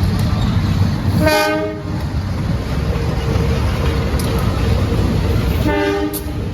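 A diesel locomotive hauling a train passes with a heavy low rumble from its engine and wheels. Its horn sounds twice in short blasts, once about a second in and again near the end.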